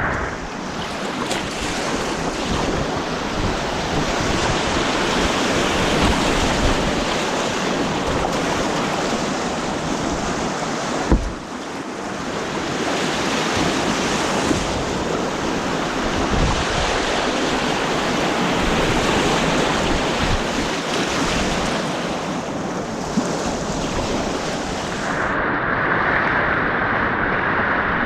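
Rushing white water from an artificial white-water course: a steady, dense roar of churning water, with one sharp knock about eleven seconds in.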